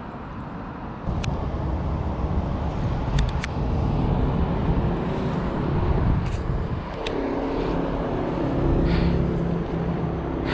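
Wind rumbling on the microphone of a bicycle being ridden, with tyre noise and a few sharp clicks and rattles. From about halfway a steady low hum joins in.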